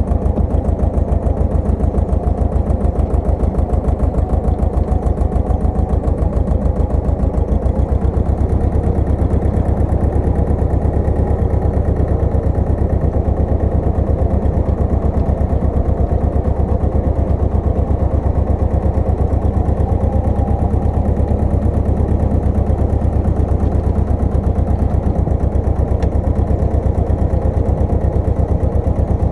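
Pasquali 980 EX tractor engine running steadily, its low tone growing a little heavier from about eight seconds in.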